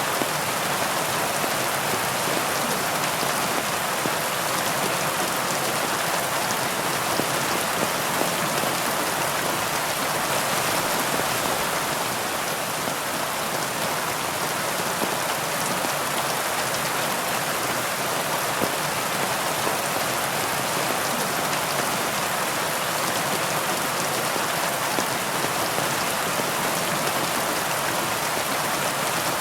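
Heavy rain falling steadily, an even hiss of many drops on surfaces with no thunder or distinct drops standing out.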